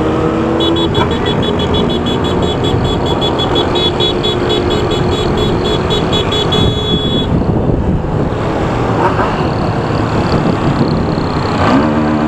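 Road and wind noise from riding a motorcycle. Over it, a rapid run of high beeps, about five a second, runs for about six seconds and ends in a short held beep.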